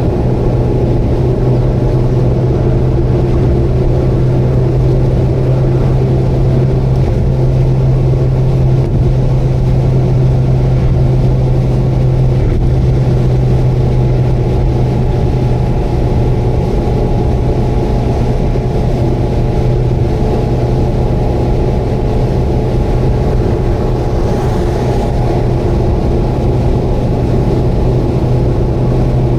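Subaru Vivio KK3's small 660 cc four-cylinder engine holding a steady drone with road noise, at a constant cruising speed.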